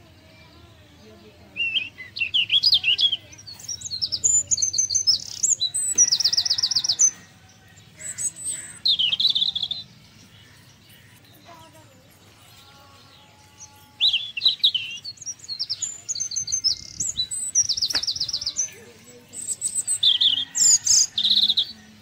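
A songbird singing in two bouts of varied high chirps, whistles and rapid trills, with a pause of a few seconds between them.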